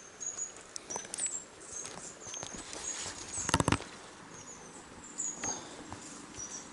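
Small birds chirping in short, high notes, with a brief burst of sharp clicks about three and a half seconds in.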